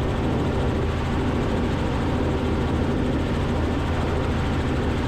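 Robinson R44 helicopter's engine and rotor noise in flight, a steady drone heard through the cockpit intercom.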